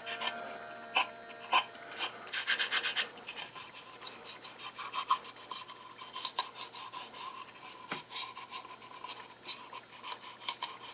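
Scrubbing the wooden drawer of an old hand-crank coffee grinder: short rubbing strokes on wood, with a quick run of strokes about two seconds in.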